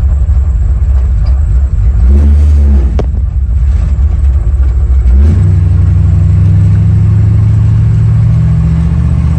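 Old Ford F100 pickup's engine running on the road. Its note changes about five seconds in to a steady, even drone, and there is one sharp click at about three seconds.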